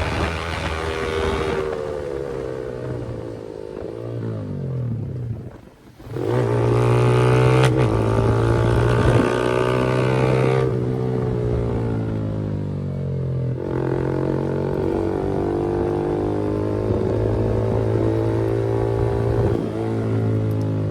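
Yamaha R15 single-cylinder motorcycle engine and exhaust pulling hard through the gears, the pitch climbing and then dropping sharply at each upshift. Near a quarter of the way in, the sound dips briefly before the engine comes back louder under full throttle.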